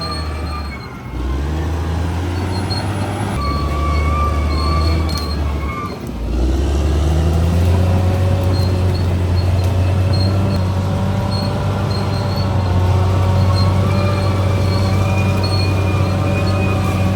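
Bulldozer's diesel engine running under load, dipping briefly twice and then holding steady, with thin high squeals from the running gear on top.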